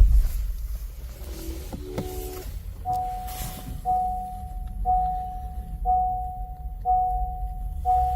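A car's warning chime dinging about once a second, each ding a clear two-note tone, over a steady low rumble from the car. A few lower tones sound about a second and a half in, before the dinging starts.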